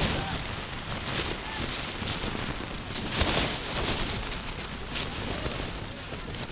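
Open-air football match sound: distant shouts of players over a steady rushing noise that swells briefly twice.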